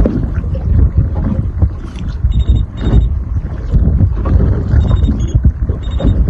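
Strong wind buffeting the microphone on a small fishing boat rocking in waves, a loud low rumble with irregular knocks. Faint short high-pitched beeps sound several times.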